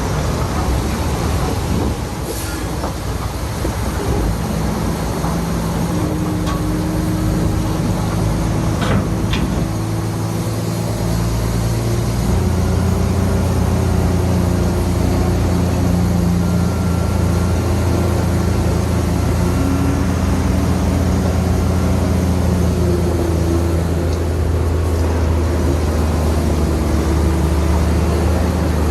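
Heavy diesel engine of earthmoving machinery running steadily, settling into a deeper, stronger hum about twelve seconds in. A couple of short knocks come in the first ten seconds.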